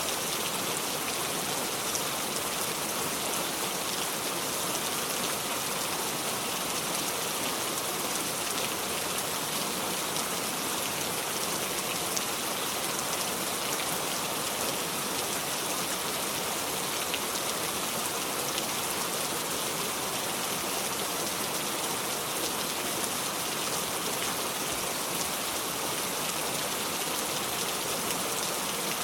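Steady rain falling, an even hiss of many drops with faint patter and no thunder.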